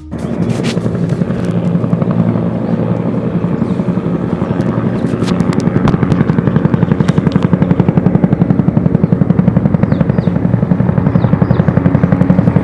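Helicopter rotor beating in a fast, steady pulse as it flies past, growing gradually louder.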